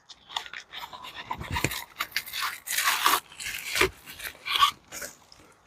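Plastic parts packaging rustling and crinkling as O2 sensors and their weld-in bungs are handled, in irregular short bursts of hiss and small clicks.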